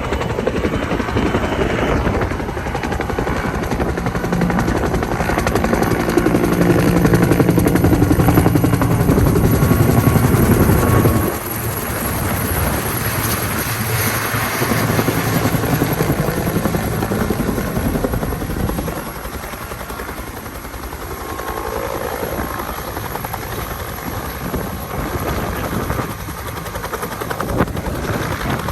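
Helicopter rotor and engine running, loud for the first eleven seconds, then dropping suddenly and easing lower from about nineteen seconds on.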